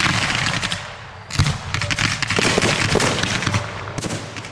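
Fireworks crackling: a fast, dense run of small pops that dips briefly about a second in, then resumes with a deeper thud and carries on.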